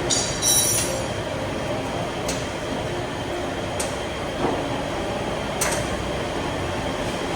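A short high-pitched metallic squeal near the start, then a light click about every one and a half seconds over a steady hiss, typical of a scooter wheel being turned in a wheel-noise check.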